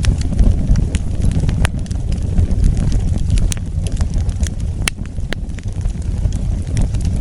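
Wood fire burning: a steady low bubbling noise with sharp crackles and pops scattered throughout, a few louder snaps in the middle.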